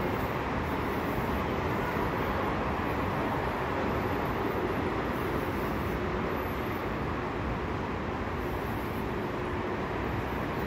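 Commuter train running slowly, heard from aboard: a steady rumble and hiss of wheels and motors, with a faint steady hum.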